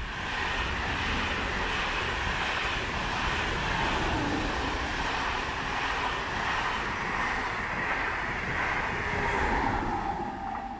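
A train passing at a station: a steady, loud rush of wheels on rails, with a faint whine coming in near the end.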